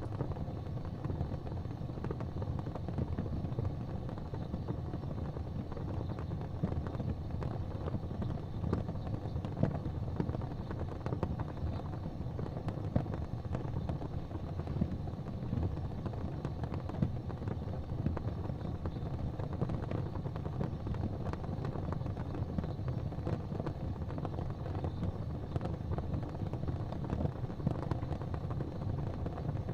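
Fire in a fireplace crackling with frequent small pops over a steady low rumble.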